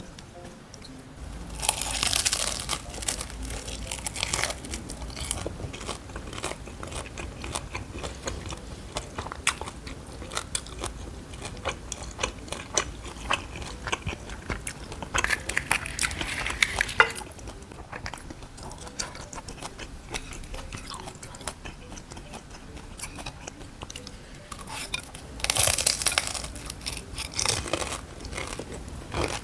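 Crisp deep-fried Vietnamese spring rolls (chả giò) being bitten and chewed close to the microphone. There are three loud bursts of crunching, about two seconds in, around fifteen seconds and near the end, with softer crackly chewing between them.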